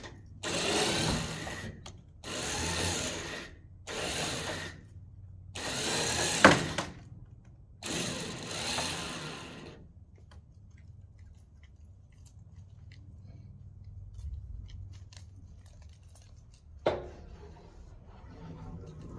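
A handheld power tool run in five short bursts of a second or two each, with a sharp click during the fourth. Then a faint low hum and a single knock near the end.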